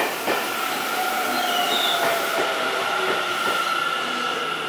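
Seibu 6000 series electric train rolling slowly to a stop at the platform, with a steady high-pitched squeal as it brakes and a few wheel clicks in the first half second.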